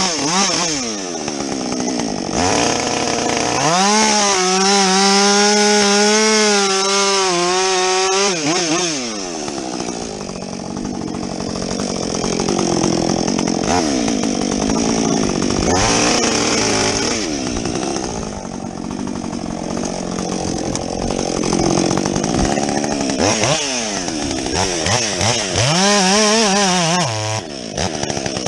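Husqvarna 562XP two-stroke chainsaw with a modified muffler, revving and cutting through a log: it runs high and steady at full throttle, then the pitch drops and wavers as the chain works through the wood, and it revs up again near the end.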